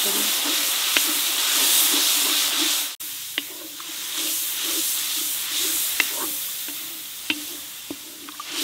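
Curd, fried onions and green chillies sizzling in hot oil in a large metal kadai while a spatula stirs and scrapes across the pan, with a few sharp knocks of the spatula on the metal. There is a brief break in the sound about three seconds in.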